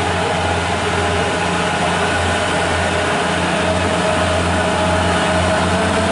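A truck engine running steadily with a low, even hum, neither revving up nor dying away.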